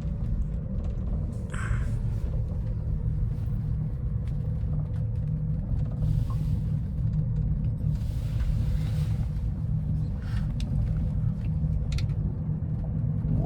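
Steady low rumble inside a Banff Gondola cabin as it rides up the cable, with a faint steady hum and a few light clicks.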